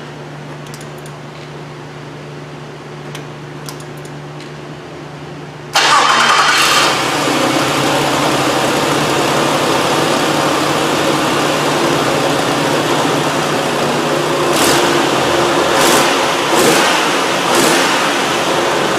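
Nissan Frontier's 3.3-litre V6 starting about six seconds in, with a brief flare, then running steadily with a few short swells near the end. It runs smooth: the misfire has been cured by a new fuel injector.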